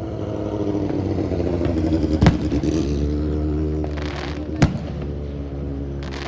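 A vehicle engine runs steadily while two sharp firework bangs go off, about two seconds apart, near the middle.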